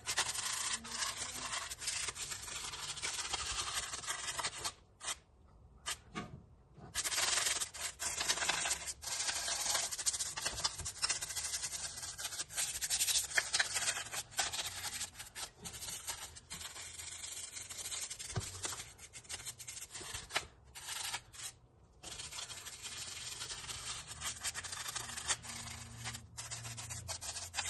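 A stiff brush scrubbing cleaner-soaked grime off the Ford Focus ST225's replacement engine in rapid strokes, stopping briefly a few times.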